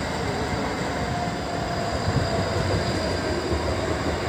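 Steady rumble of a train running nearby, with no distinct clacks or squeals.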